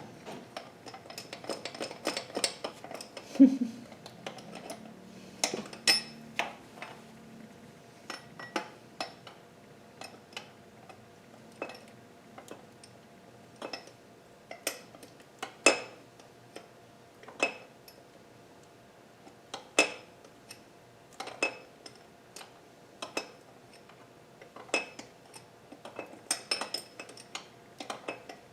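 Hand tools clinking and tapping on metal engine parts: sharp, irregular metallic clinks every second or two with a brief ring. The loudest is a duller knock a few seconds in.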